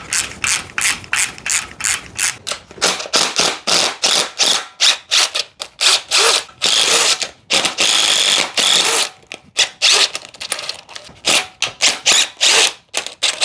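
Socket ratchet clicking in quick repeated strokes, with a few longer runs of continuous clicking in the middle, as the flywheel bolts holding a rear main seal press tool are turned.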